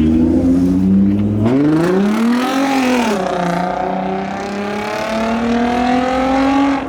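Car engine running hard at high revs: its pitch holds, climbs steeply about a second and a half in, drops sharply about three seconds in, then climbs slowly again.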